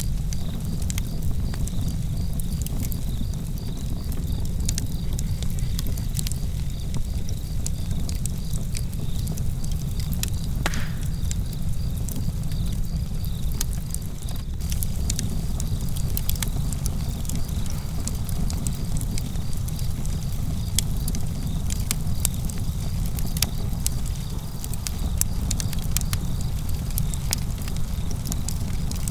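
Campfire burning, with frequent sharp crackles and pops over a steady low rumble. Crickets chirp in an even, pulsing trill throughout.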